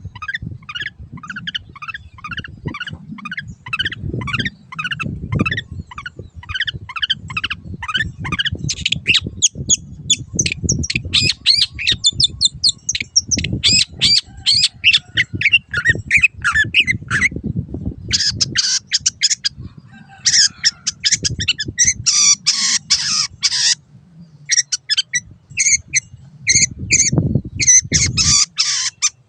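Long-tailed shrike singing: a long run of short repeated notes, about three a second at first, growing higher and harsher from about nine seconds in, with a low rumble underneath.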